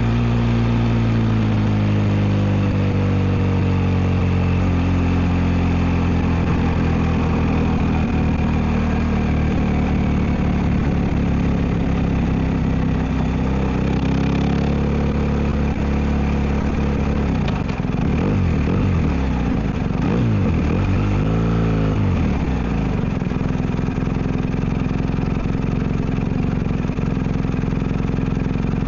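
BMW R1250 GS boxer-twin engine through an Akrapovic exhaust. The note falls slowly as the bike slows, holds steady, then gives three quick throttle blips that rise and fall about two-thirds of the way through, and settles into a steady idle near the end.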